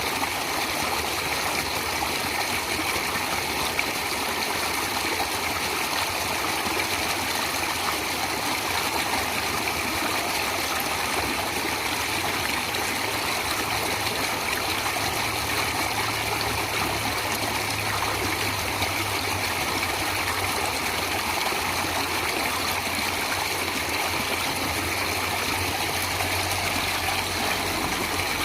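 Stream water flowing steadily in an even, unbroken rush, with a faint low hum underneath through the middle stretch.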